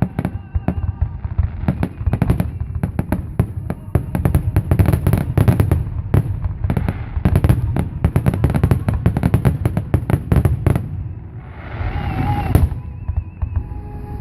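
Aerial fireworks going off in a rapid, dense barrage of booms and crackling bangs. The bangs thin out and stop about three seconds before the end.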